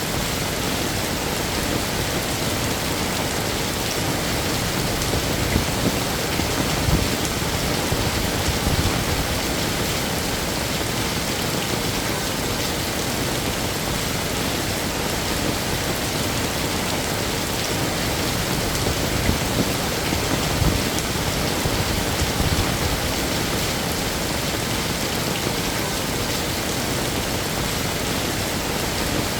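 Heavy rain falling steadily, a dense even hiss of rain on surfaces, with a few brief swells in the low end.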